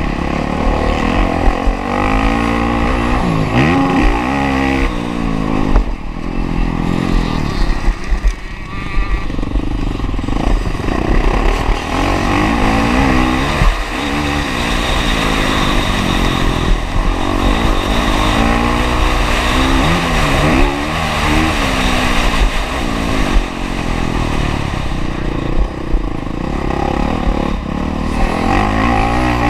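Honda CRF450R's single-cylinder four-stroke engine revving hard and falling back over and over as the bike is ridden around a motocross track, picked up by a camera mounted on the bike or rider.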